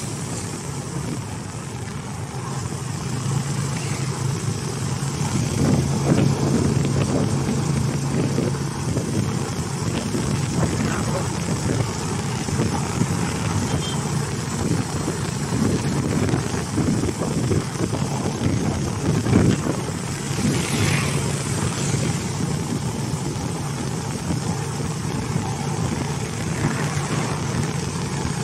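Steady running noise of a vehicle driving along a road: a low engine hum under tyre and wind noise, with brief louder swells at the start and about twenty seconds in.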